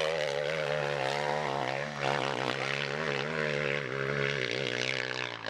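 Off-road motorcycle engine running steadily, its pitch wavering slightly as the throttle is held.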